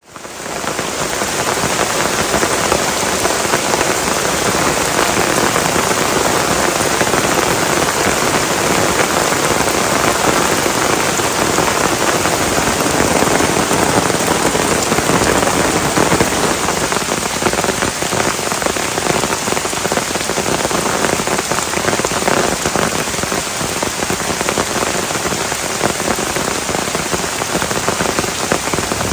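Heavy rain falling steadily and hard, fading in over the first second.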